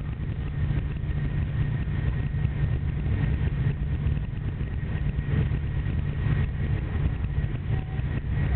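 Steady low rumble of a TGV high-speed train running at speed, heard from inside the passenger car, with a faint steady high whine above it.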